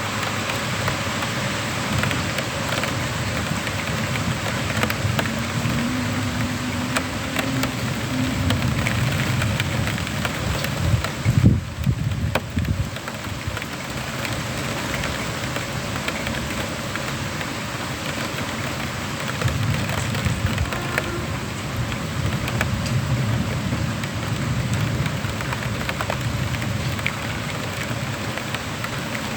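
Heavy rain in a thunderstorm, falling steadily and pattering on surfaces with many small drop impacts, with a brief louder low rumble around the middle.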